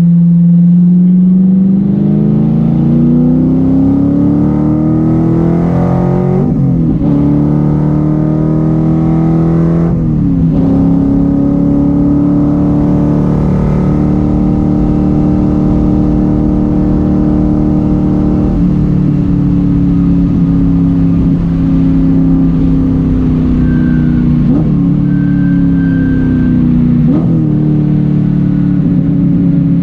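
Factory Five Daytona Coupe replica's engine running hard on track, climbing in pitch as the car accelerates, with brief breaks about seven and ten seconds in. It then holds a steady note and eases slightly lower later on.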